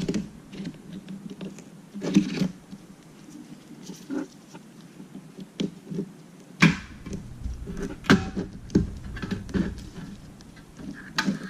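Small clicks, taps and scrapes of hand tools and small parts on an opened iPad mini as a component is worked loose and pulled out, with a few sharper clicks among them.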